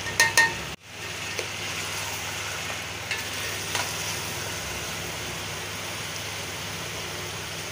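Chicken pieces frying in oil in a steel pot, with a steady sizzle, as dry spice masala is added and stirred in with a spatula. Two or three ringing metallic clinks right at the start, from the steel spice plate knocking against the pot, and a short break in the sound just under a second in.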